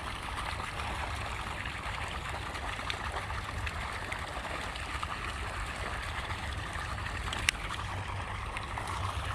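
Steady rush of flowing stream water, with a single sharp click about three-quarters of the way through.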